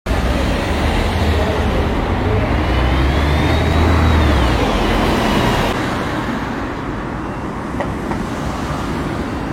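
Tram running, with a loud steady rumble and noise. A thin high whine rises and then falls around the middle, and the deep rumble eases off about halfway through.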